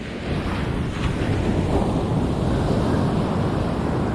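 Wind buffeting the microphone over the steady wash of ocean surf breaking on the beach, getting louder just after the start and then holding steady.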